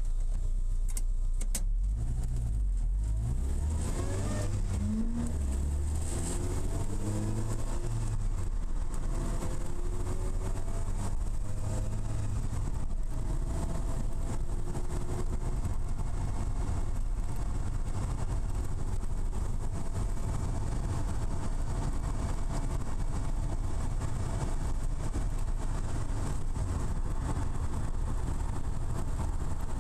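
Lotus Elise S1's Rover K-series four-cylinder heard from inside the cabin, pulling away and accelerating through the gears, its pitch rising in steps over the first several seconds. It then settles into steady cruising with road noise. A few sharp clicks come about a second in.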